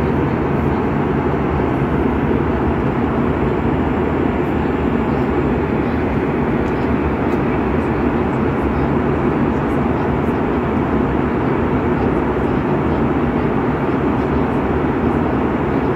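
Steady drone of an airplane in flight, engine and airflow noise heard inside the cabin, unchanging throughout.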